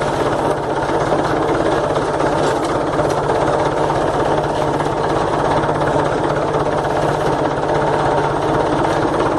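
Tractor engine running steadily under load as it pulls a lowered three-point rear scrape blade through a ditch, cleaning it out.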